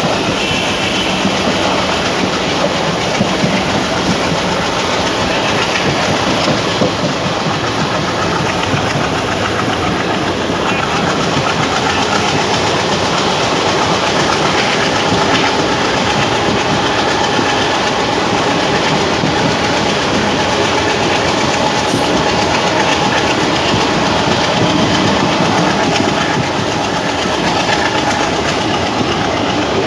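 Passenger coach of an Indian express train running along the track, heard at the open doorway: a loud, steady rumble and rattle of the wheels on the rails.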